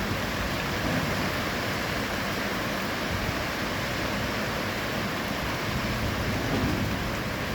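Heavy rain pouring down steadily as an even, dense hiss.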